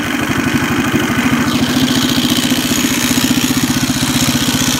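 Mini bike's small engine running steadily at idle just after being started, with a rapid, even firing beat. Its torque converter is engaging even at idle, which the owner takes for the fault.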